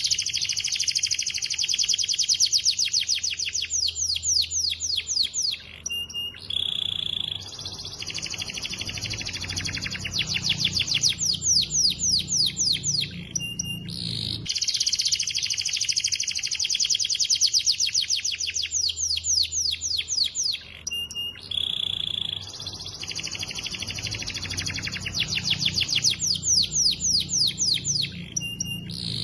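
Domestic canary singing a long, fast song of rapid trills, broken by short whistled notes. The same long song passage plays through twice, the second starting about halfway through.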